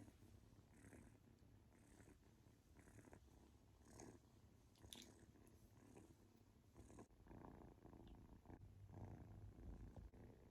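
Kitten purring faintly, in soft waves about once a second.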